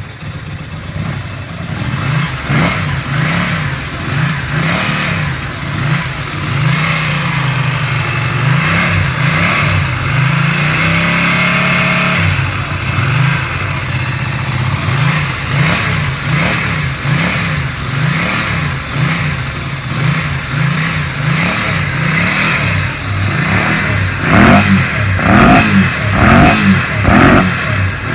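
1997 Ducati 400SS air-cooled L-twin engine running and being blipped on the throttle, its revs rising and falling about once a second. The revs are held up for a few seconds near the middle. Near the end the blips come sharper and louder.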